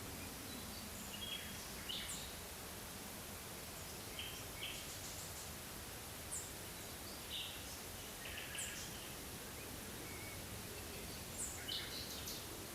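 Forest ambience: wild birds giving short, high chirps and brief calls about once a second over a steady background hiss.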